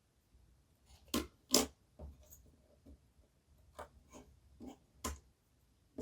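Small sharp clicks and taps of tiny T-gauge model rail track pieces being handled and fitted together, the two loudest clicks just over a second in and another about five seconds in, with softer taps between.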